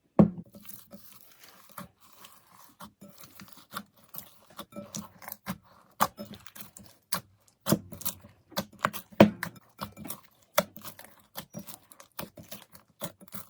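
Foam-bead slime (floam) being squeezed and kneaded by hand, giving an irregular run of crunchy crackles and sticky pops.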